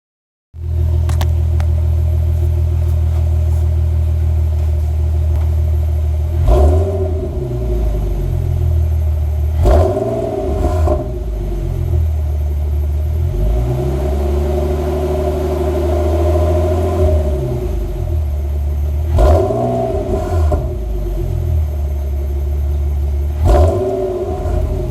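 2008 Infiniti G37 coupe's 3.7-litre V6 running through a Borla cat-back exhaust. It idles with a steady low drone and is blipped in about six quick revs, with one slower, longer rise and fall in the middle.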